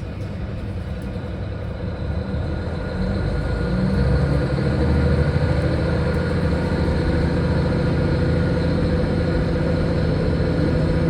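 Diesel railcar running with a steady low engine hum. The hum grows louder over the first few seconds and then holds steady.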